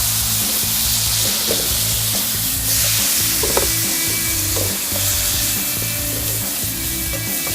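Chicken of the woods mushrooms and meatballs sizzling as they fry in butter in a pan over a campfire, the sizzle growing louder partway through, with a few soft knocks. Background music with a steady beat plays underneath.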